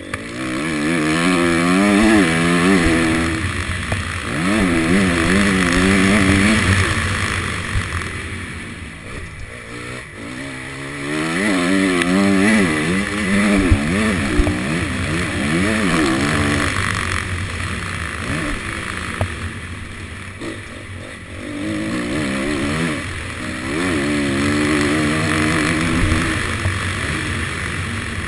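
Honda CRF250 motocross bike's single-cylinder four-stroke engine, heard from a helmet camera, revving up and dropping back again and again as the throttle is opened and closed around the track. Wind rushes over the microphone throughout.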